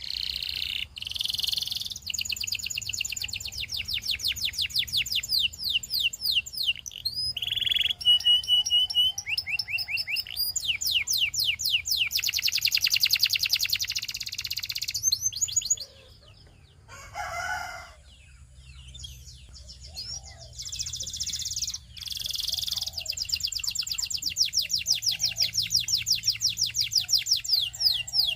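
Belgian singing canary singing a long song of fast trills: runs of quickly repeated high notes that change pitch from phrase to phrase, with a short break about two-thirds of the way through.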